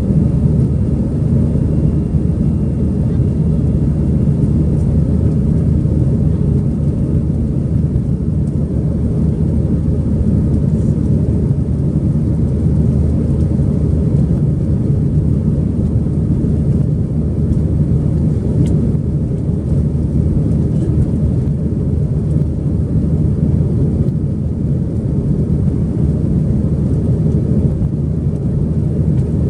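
Cabin noise of an Airbus A320-200 during takeoff: a steady, loud low rumble of the jet engines and airflow, heard from inside the passenger cabin.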